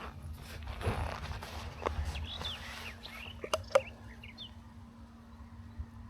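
Riding noise from a bicycle: a low rumble of wind and road, with a steady hum. There are a few short bird chirps about two seconds in, and two sharp clicks close together a little past halfway.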